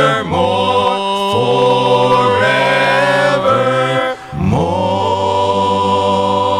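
Male vocal group singing a gospel hymn a cappella in close harmony, holding long chords. There is a short break about four seconds in before the next chord is held.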